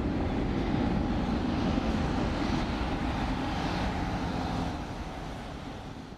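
Airbus A330-300 jet engines running at takeoff power as the airliner departs, a steady rumble that fades near the end.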